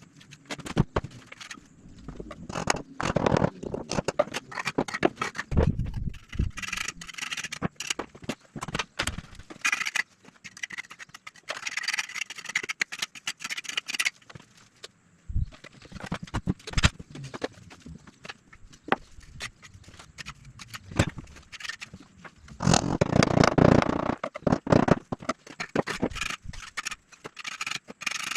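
Irregular knocks, taps and scraping from hand work on a fireplace build. There is a longer scraping stretch in the middle and a loud one near the end.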